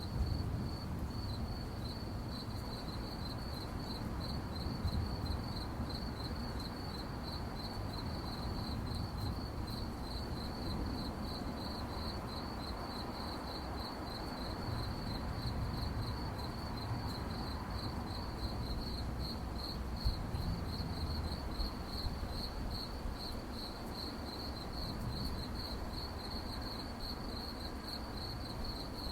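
Crickets chirping in a steady, fast-pulsing, high-pitched chorus, with a low background rumble underneath.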